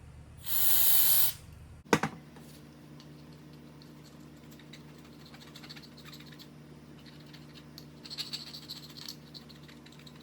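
A one-second hiss from a can of aerosol carburetor cleaner, followed shortly after by a single sharp click. Near the end comes a light, scratchy rubbing, as the part is wiped.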